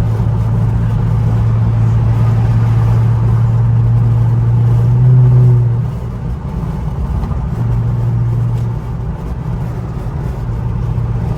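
Infiniti Q50's twin-turbo 3.0 V6, fitted with aftermarket downpipes, droning steadily under light throttle at highway speed. About five seconds in it swells and climbs a little in pitch, then drops off sharply as the throttle is let off. It picks up briefly once more before settling lower.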